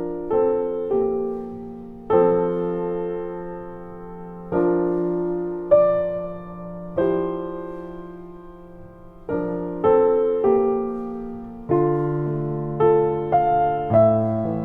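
Background music: slow, gentle piano playing chords and single notes, each struck note fading away.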